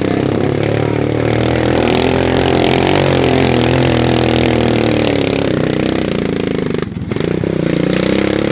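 Motorcycle engine running steadily with its pitch wavering up and down, with a brief drop in level near the end.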